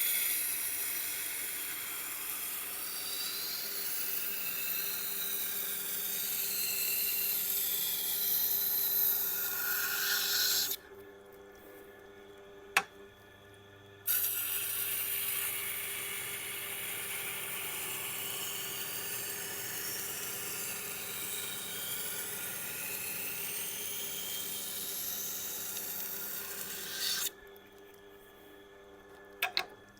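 Knife blade being ground on the coarsely dressed stone of a Tormek T8 wet grinder: a steady gritty rasping over the low hum of the slow-turning motor. It breaks off twice for a few seconds as the blade is lifted from the stone, leaving only the motor hum, with a sharp click in the first break.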